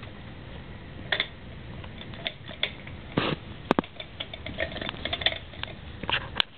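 Scattered, irregular clicks and knocks of hand tools and fittings being handled at a jet ski engine during a compression test, with a few short scrapes.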